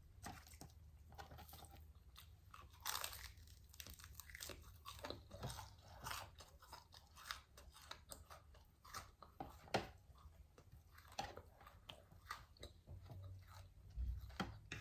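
A person chewing food close to the microphone: quiet, irregular mouth clicks and small crunches, with a slightly louder crunch about three seconds in and again near the end.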